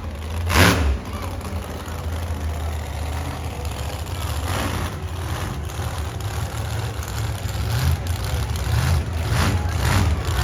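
Monster truck engine idling with a heavy low rumble. There is one short, loud surge about half a second in and softer surges later on.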